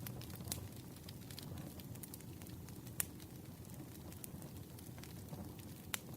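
Campfire crackling: a low steady rumble of burning wood with scattered sharp pops, the loudest about three seconds in and again just before the end.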